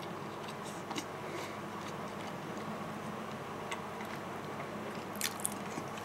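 Faint chewing of a mouthful of fried chicken with the mouth closed, with a few small wet mouth clicks. The loudest clicks come in a cluster about five seconds in.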